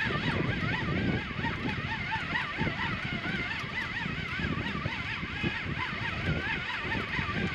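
Fishing reel being wound slowly against a heavy fish, a whine that wavers up and down in pitch over and over with the turning of the handle.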